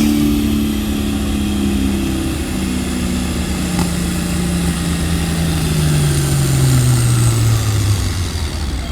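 Pulling tractor's engine running under load, its note falling steadily lower as it loses speed. The fall is a sign of mechanical trouble under the hood, which the announcer suspects may be the charger.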